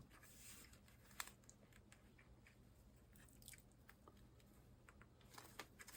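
Near silence, with a few faint clicks and ticks of a circuit board being handled; one is a little louder about a second in.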